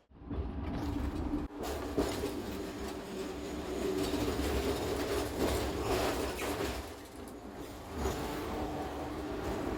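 Hong Kong double-decker electric tram running along its rails: a steady rumble with a low hum, and single clanks about two seconds in and again near the end.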